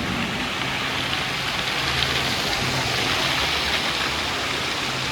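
Water pouring and splashing in a steady rush, as from a waterfall or overhead sprays on a water-park lazy river.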